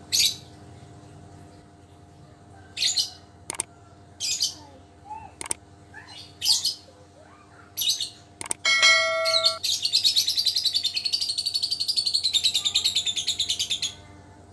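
Lovebird, recovered from snot (avian coryza), giving several short sharp chirps followed by a long rapid trill of about four seconds.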